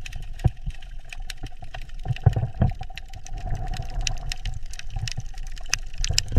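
Underwater ambience: a low rumble of moving water with a faint steady hum and scattered sharp clicks.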